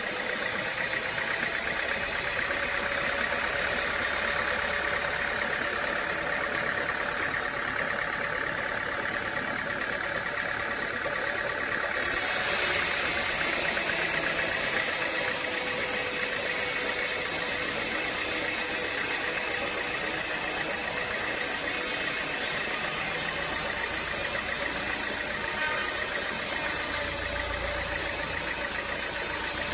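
Sawmill machinery running steadily, an engine-driven drone with a constant hum. About twelve seconds in the sound turns brighter and a little louder.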